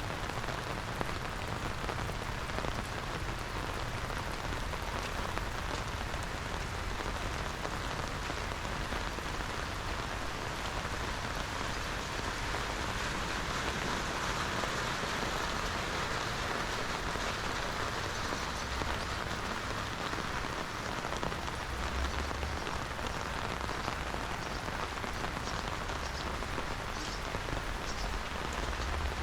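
Steady rain falling and pattering on the surfaces around, an even hiss with no let-up.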